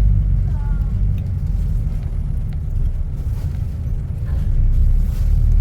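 Low, steady vehicle rumble of engine and road noise from a vehicle moving through traffic.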